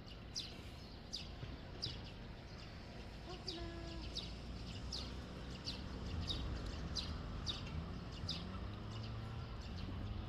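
A small bird repeating a short, sharp downward-sliding chirp about every two-thirds of a second, over a low steady background rumble.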